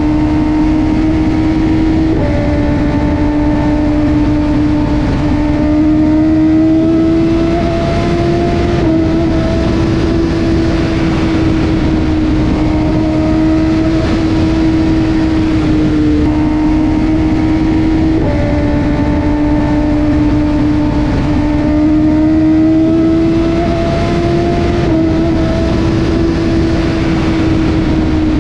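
BMW S1000RR inline-four engine through an Austin Racing GP1R full Inconel exhaust, running steadily at high revs. The pitch creeps slowly upward and drops back abruptly about five times.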